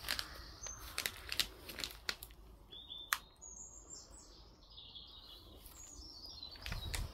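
Songbirds chirping in short high phrases, with a few sharp clicks and rustles scattered through.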